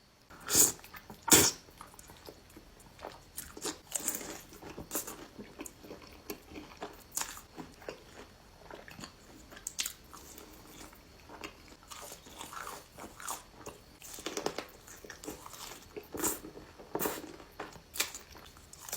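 A person eating close to the microphone: crunchy bites and chewing at an uneven pace, with two loud crunches within the first second and a half.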